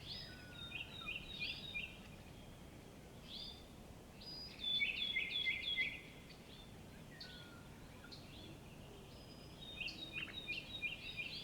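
Songbirds singing in a forest: bursts of short, high chirps and quick trills, with the loudest run of song about five seconds in and more near the end, over a faint steady background hiss.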